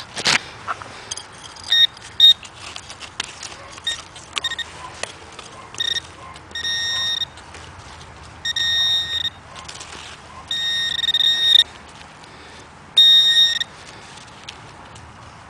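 Metal-detecting gear sounding a steady high electronic tone over a buried target: a few short chirps, then four longer bursts of about a second each. There is a sharp knock near the start and light scraping.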